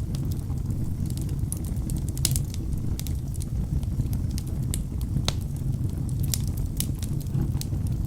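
Wood logs burning in a fireplace: a steady low roar of flames with frequent sharp crackles and pops, one louder pop about five seconds in.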